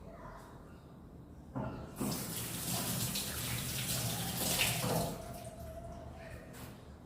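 Kitchen tap turned on, water running into a sink for about three seconds, then shut off.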